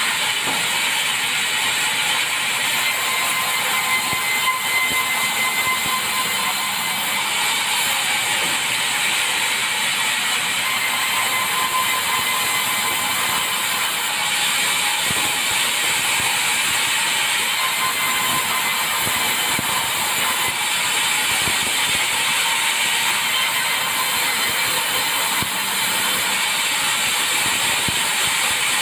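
Sawmill blade running and cutting through hardwood timber: a steady, harsh sawing noise with a faint high whine.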